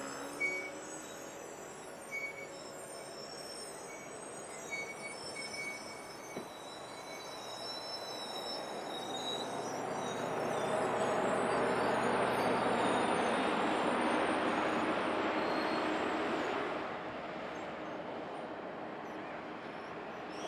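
Train rolling past on the rails, its noise swelling about halfway through, loudest for several seconds, then easing near the end, with thin high-pitched squeals over it.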